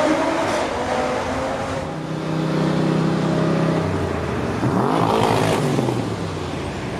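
Car engines running. A steady engine note builds about two seconds in, then the pitch sweeps up and down around five seconds in as a car passes by.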